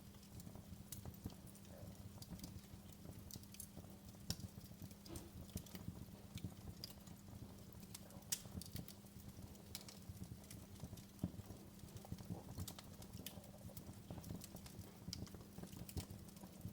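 Wood fire in a fireplace crackling: irregular sharp pops and snaps, a few louder ones, over a low steady rumble.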